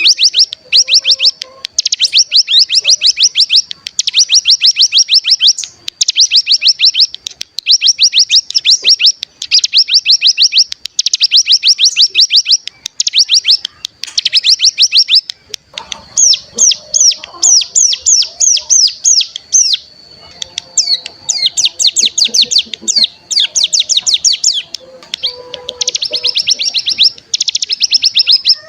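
Ciblek gunung (a mountain prinia) singing its rapid rattling trill, the 'ngebren' song used as a lure to set other birds singing. It comes in repeated high, fast bursts of about a second and a half with short gaps, and changes to slower separate chirps for a few seconds past the middle.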